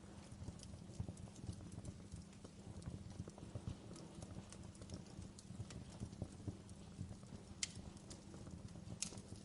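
Wood fire burning in a fireplace: a steady low rush of flames with frequent small crackles and pops, and two sharper pops near the end.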